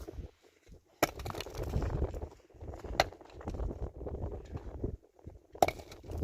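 Three sharp knocks, roughly two seconds apart, among rustling and handling noise with a low rumble underneath.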